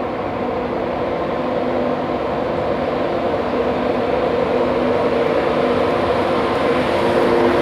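A train's engines running, a steady hum with a few held tones that grows gradually louder.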